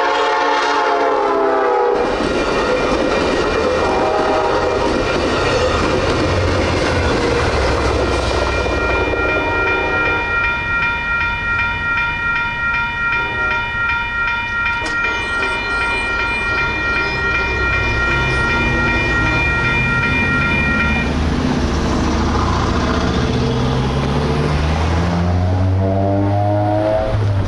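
An Amtrak San Joaquins passenger train rumbles through a grade crossing with wheels clattering on the rails, and its horn sounds at the start, falling in pitch as it passes. The crossing bell rings steadily over it until about two-thirds of the way through, then stops as the crossing clears. Near the end, a tone rising in pitch comes in.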